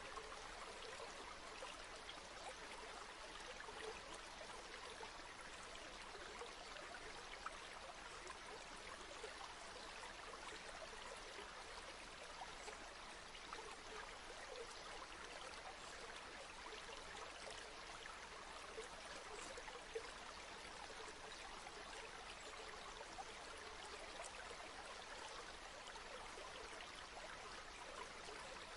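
Flowing river water: a faint, steady rush with small irregular splashes scattered through it.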